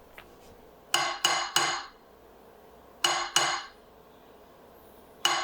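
Sharp metal-on-metal taps that ring briefly, in three clusters: three quick taps about a second in, two in the middle and two near the end.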